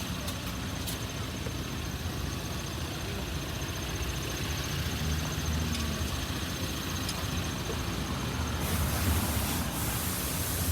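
A steady low mechanical hum of a running engine or machine, with a loud spraying hiss starting about eight and a half seconds in.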